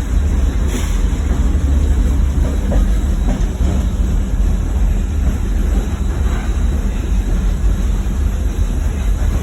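Steam excursion train riding along the rails, heard from aboard: a steady heavy low rumble.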